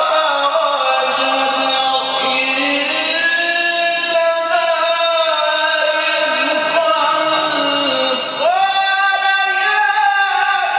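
A male Quran reciter's solo voice in ornamented melodic recitation, chanting one long phrase of sustained, wavering held notes. The pitch glides slowly down at the start and leaps up to a higher held note about eight seconds in.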